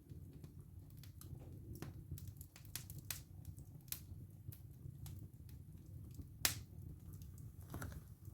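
Wood fire burning in a fireplace: a low steady rumble of flames with frequent sharp crackles and pops from the burning wood, the loudest crack about six and a half seconds in.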